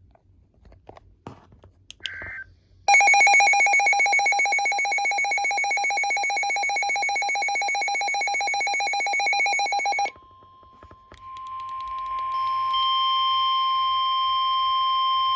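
Handheld NOAA weather radio going off for a warning. After a brief noise about two seconds in, the receiver's buzzy alert alarm pulses rapidly for about seven seconds. It stops, and then the station's steady single-pitched warning alarm tone sounds for about four seconds, growing louder and cutting off suddenly.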